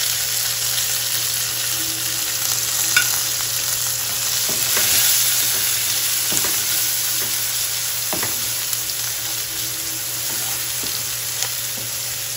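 Chopped onion, garlic and tomato sizzling in hot oil and ghee in a pan, a steady hiss, while a spatula stirs them with a few short scrapes and taps against the pan.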